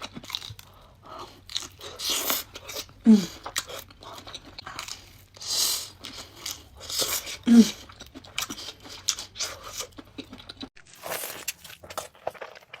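Close-miked chewing and crunching of breaded, fried mozzarella sticks, irregular bites and chews, with a couple of short 'mm' hums.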